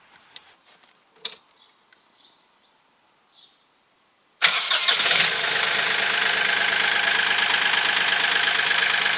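KIOTI CK3510 tractor's three-cylinder diesel engine starting about four and a half seconds in, with a short burst of cranking before it catches, then running steadily at idle. This is its first start after an oil change, run briefly to fill the new oil filter. A few small clicks come before it.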